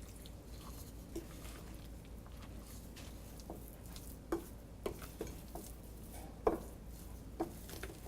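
Marinated chicken pieces being mixed with cornflour and rice flour in a bowl: faint, scattered soft squelches and light knocks, coming more often from about halfway through.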